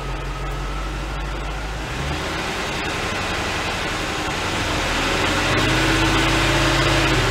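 1995 Corvette's LT1 V8 idling, heard from inside the cabin, with its note rising slightly in pitch and loudness over the second half.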